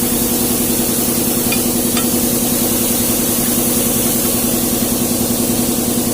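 Hino truck's diesel engine idling steadily, with an even, pulsing beat.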